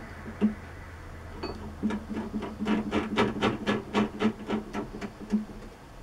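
A quick run of sharp taps or knocks, about four a second, from hand work on metal in the workshop. A steady low machine hum stops about three seconds in.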